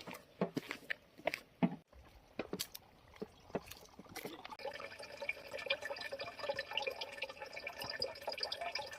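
Spring water trickling and dripping, first in scattered splashes, then from about halfway in a steady run of water with a ringing tone, like a container filling.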